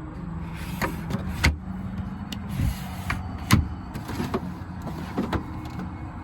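Handling sounds as a first-aid kit is opened inside the camper van: about six sharp clicks and knocks of latches and panels, the loudest about three and a half seconds in, over a steady low hum.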